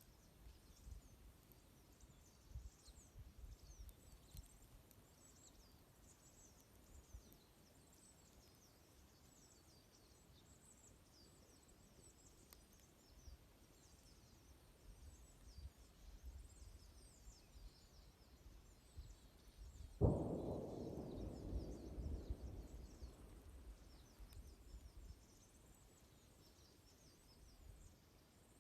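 A flock of small birds chirping, with many quick, high, thin calls overlapping throughout. About two-thirds of the way through, a sudden rushing sound starts and fades away over a few seconds.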